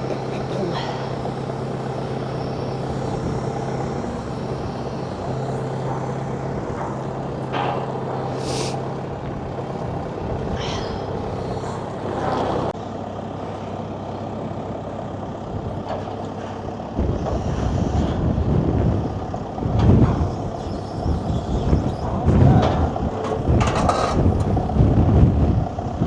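A heavy diesel machine's engine running steadily. About seventeen seconds in it gets louder under load, joined by irregular crashes and scraping as the metal framework is pulled down.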